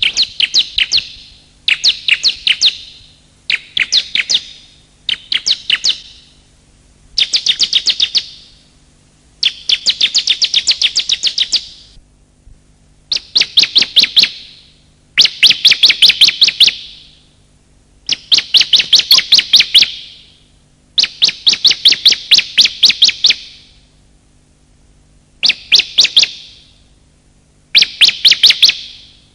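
Bar-winged prinia (ciblek) lure recording, male and female: loud phrases of rapid, sharp chattering notes, each lasting one to two and a half seconds, repeated over and over with short pauses between.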